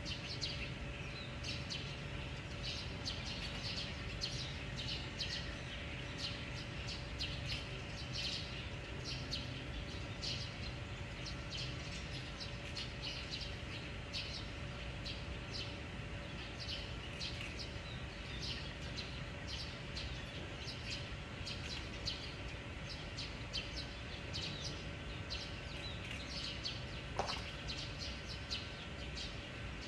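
Small birds chirping, many short repeated calls all through, over a steady low hum and a faint steady tone. One short rising note sounds near the end.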